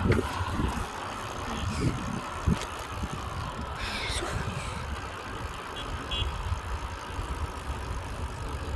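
Bicycle riding noise: an uneven low rumble with a few short knocks.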